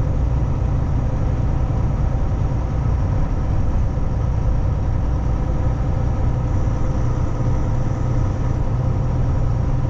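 Cab noise of a Kenworth T680 semi-truck on the move: a steady low engine drone with road noise, holding an even level throughout.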